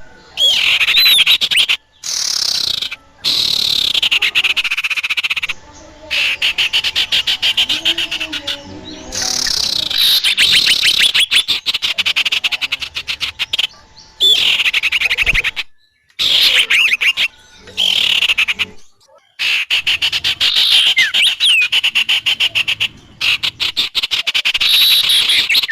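Recorded bird-lure calls: rapid chattering trills with short whistled glides, repeated in segments that start and stop abruptly with brief silent gaps between them.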